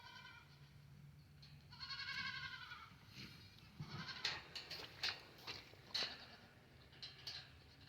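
A goat bleating once, faintly, about two seconds in, after a weaker call at the start; a few faint clicks and taps follow.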